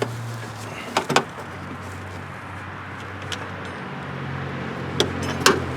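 A few sharp clicks and knocks of metal and plastic parts being handled and fitted inside an open car door, about a second in and twice near the end, over a steady low hum.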